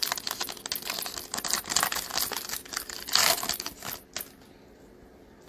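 Foil wrapper of a basketball trading card pack crinkling and tearing as it is opened, with a louder burst a little after three seconds; it stops a little after four seconds.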